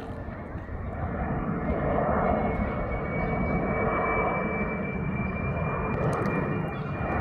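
An Alliance Airlines airliner flying over on approach to land: steady engine noise with a high whine, growing a little louder about a second in.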